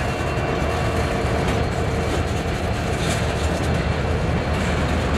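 Freight train boxcar rolling slowly across a grade crossing during a switching move: a steady low rumble of steel wheels on rail.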